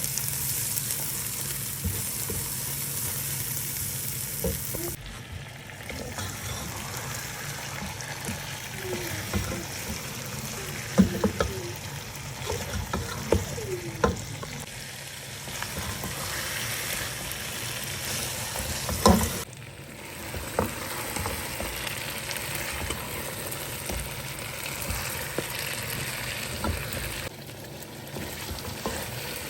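Food sizzling and frying in a pot while it is stirred, with a cooking spoon knocking and scraping against the pot now and then. The sizzle changes abruptly a couple of times.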